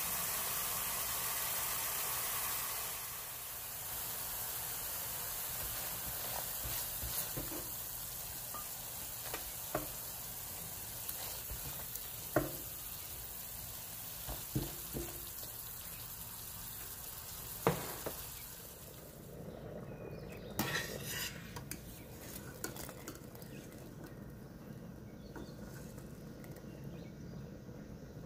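Oily tomato-and-pepper paste sizzling in a frying pan, with a ladle stirring and scraping it and a handful of sharp knocks against the pan. A little past two-thirds of the way through the sizzle falls away, followed by a brief clatter and a quieter low rushing.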